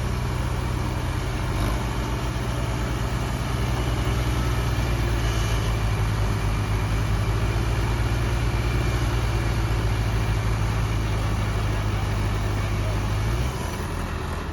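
Tractor diesel engine running at a steady pitch, its note dropping and the level falling a little about a second before the end.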